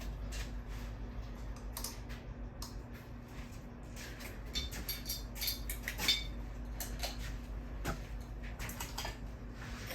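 Irregular light clicks and clinks of small hard objects being handled, over a steady low hum.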